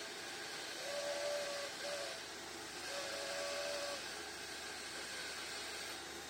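A power tool running with a steady hiss, and a steady pitched whine sounding twice, each for about a second.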